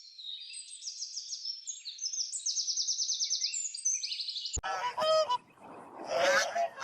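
Birds chirping in rapid high-pitched trills, several calls overlapping. After an abrupt cut about two-thirds in, a lower, harsher honking call takes over.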